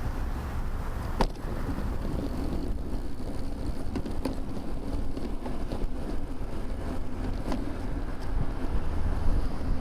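Wind buffeting a bicycle-mounted camera's microphone while riding, with road rumble and a few sharp knocks from bumps. A faint steady hum joins from about two and a half seconds in.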